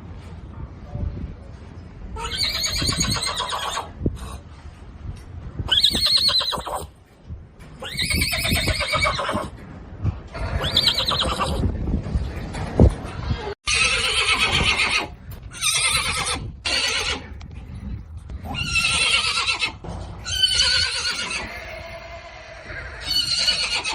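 Horses whinnying over and over: about nine separate whinnies, each a second or two long with a quavering pitch.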